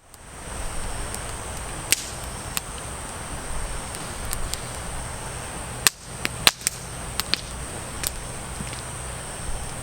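Campfire burning, crackling with irregular sharp pops from the wood, the loudest in a quick cluster about six seconds in, over a steady high whine.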